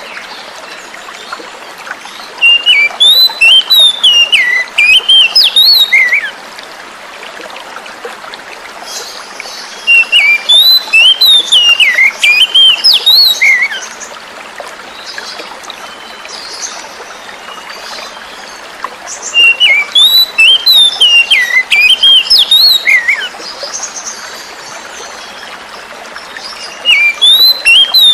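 Oriental magpie-robin (kacer) singing in bursts of quick, jumping whistled notes, each burst about three and a half seconds long, four times, roughly every eight to nine seconds. A steady rush of flowing water runs underneath.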